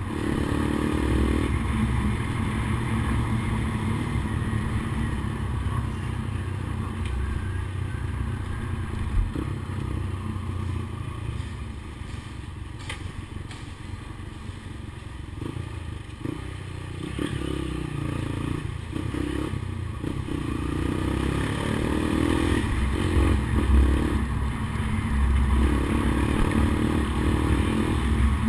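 Honda CBX 200 Strada's single-cylinder four-stroke engine running, its sound easing off in the middle and growing louder again over the last several seconds.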